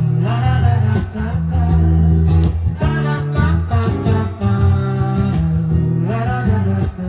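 Live acoustic music led by guitar, with a pitched melody line gliding above steady low notes.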